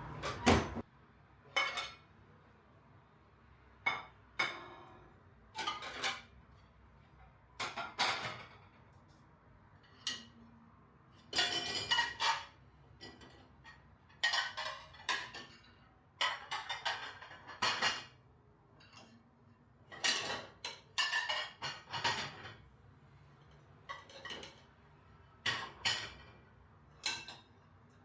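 Dishes and cutlery being handled: irregular clinks and clatters of crockery and utensils in small clusters, with short pauses between them.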